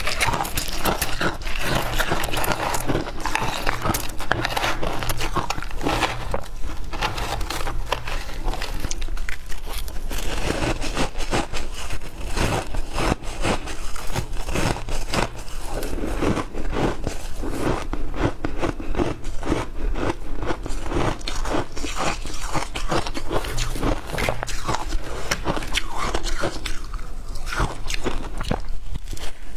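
Ice being bitten and crunched between the teeth in a dense, continuous run of crisp crunches.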